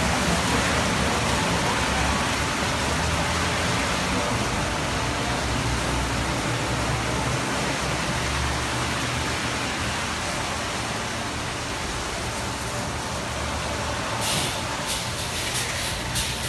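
Automatic car wash machine running: a steady hiss of spraying water over a low motor hum. Near the end a quick series of short, sharp hissing bursts starts.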